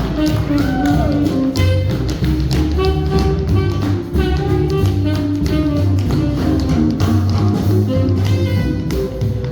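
Swing band playing, with the metal taps of tap shoes clicking rapidly over the music.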